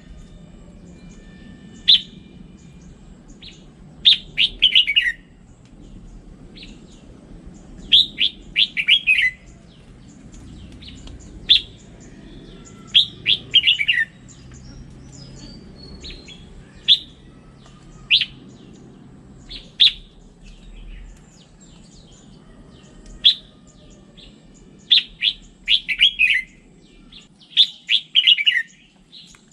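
Red-whiskered bulbul singing: short phrases of quick whistled notes, some falling in pitch, repeated every few seconds over a faint low hum.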